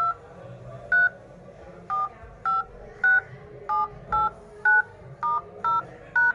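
Smartphone dial-pad key tones (DTMF) from a Redmi Note 10S, as its keys are tapped one after another across the keypad to test a newly replaced touch screen: eleven short two-tone beeps, each a different pitch pair, about two a second.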